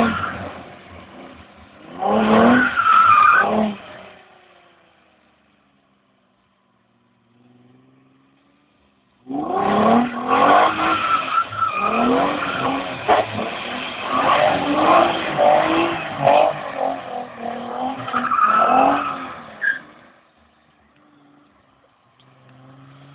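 Nissan 300ZX's V6 engine revving hard and unevenly, rising and falling in pitch as the car drifts on wet pavement. A short burst of revving comes at the start, then the engine fades almost away for a few seconds, then about ten seconds of continuous revving before it drops back to a faint idle.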